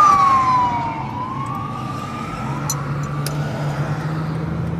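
Emergency vehicle siren wailing, its pitch sliding down over the first second, then slowly rising again as it fades, heard from inside a moving car over steady road noise.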